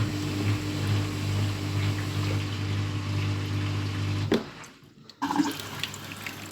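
Washing machine filling with water: water rushing in over a steady hum, the 'vroom vroom' that the owner puts down to the pump trying to get the water in. About four seconds in the hum cuts off with a click. After a brief quiet and a knock, a fainter hum and trickle go on.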